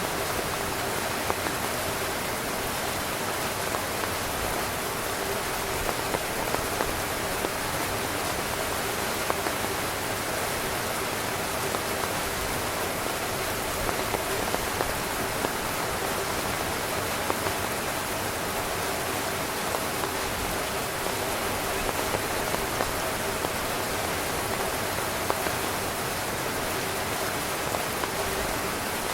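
Steady rain falling on a tent: a continuous dense hiss with many small, louder drop taps scattered through it.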